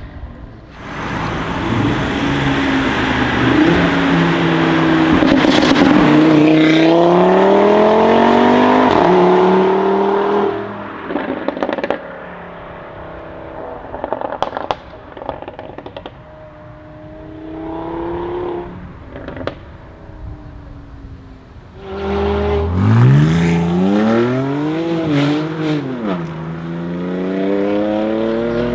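Stage-1-tuned Audi RS3 8V's turbocharged five-cylinder engine accelerating hard, its note rising in steps, then dropping off with several sharp pops and crackles from the exhaust. About twenty seconds in it pulls hard again, the revs swinging up and down and then climbing once more.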